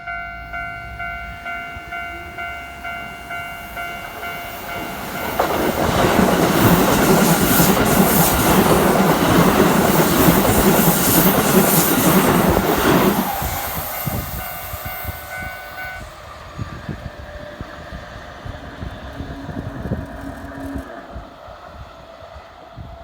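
A Japanese level-crossing alarm rings in even pulses. Then an eight-car Keikyu 2100-series express passes close by at speed, a loud rush of wheels and motors for about seven seconds. As the train draws away the crossing alarm is heard again, fading, and it stops about sixteen seconds in.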